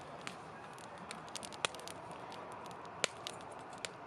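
Wood campfire crackling: irregular sharp pops and ticks over a steady low hiss, with two louder pops about one and a half and three seconds in.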